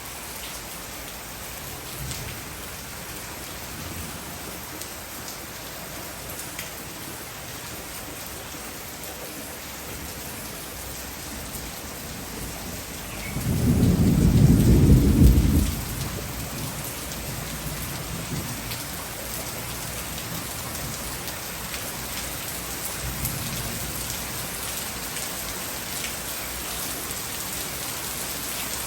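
Heavy rain pouring down steadily, with a low rumble of thunder about halfway through that lasts a couple of seconds and is the loudest thing heard.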